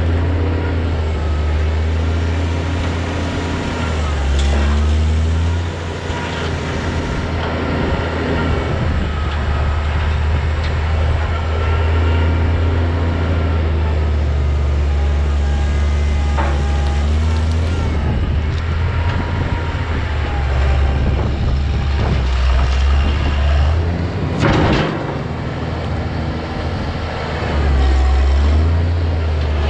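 A vehicle engine running steadily under load, its pitch shifting up and down several times as it is throttled, with one sharp clatter about 25 seconds in.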